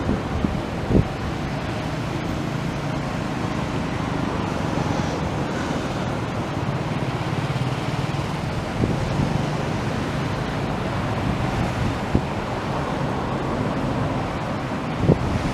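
Steady rushing of a river in spate, running high after a typhoon's heavy rain, with wind buffeting the microphone in short thumps about a second in and again near the end.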